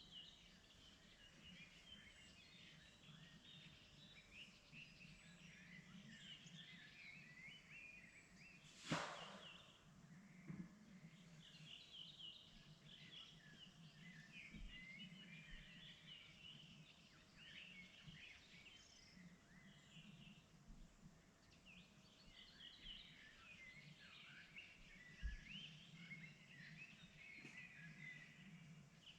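Faint spring chorus of small songbirds chirping and twittering continuously over a low steady hum, with one sharp click about a third of the way in.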